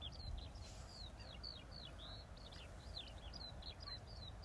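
A small bird chirping: a quick run of short, high, downward-slurred chirps, about four a second, over a faint low outdoor rumble.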